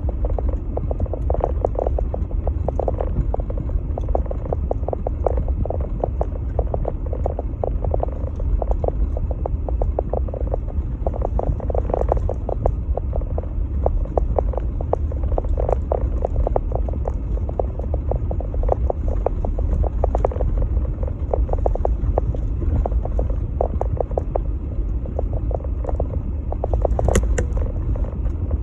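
Jeep Gladiator driving in snow: a steady low rumble with many quick crackles and ticks throughout, and a few sharper clicks near the end.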